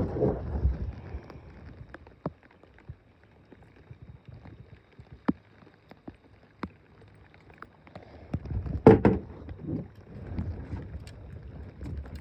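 Fishing tackle being handled in a small boat: scattered light taps and clicks, with a louder knock and rustle about nine seconds in.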